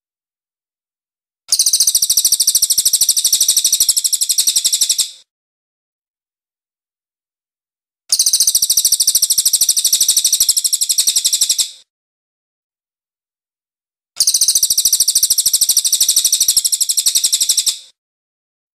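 Cililin (crested jay) singing in three bursts of about four seconds each, separated by silent pauses. Each burst is a fast run of high, closely repeated notes.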